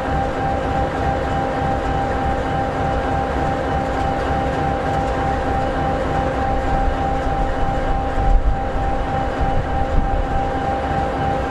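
SD60E locomotive's EMD 16-710G3B, a turbocharged sixteen-cylinder two-stroke diesel, idling steadily: a low rumble with a steady whine over it. Two brief low bumps about two-thirds of the way through and near the end.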